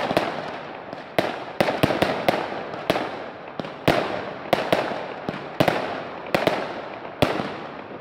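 Fireworks going off: a quick, irregular series of about a dozen sharp bangs, each trailing off in a crackle.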